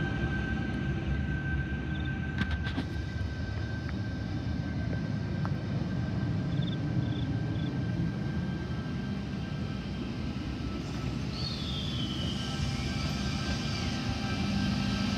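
Stainless-steel double-deck electric passenger train rolling slowly past: a steady low rumble with a constant faint whine, and a few sharp clicks about two and a half seconds in.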